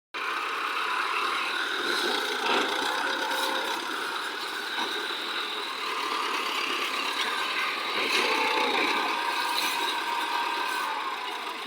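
Tractor engine running with a continuous mechanical rattle.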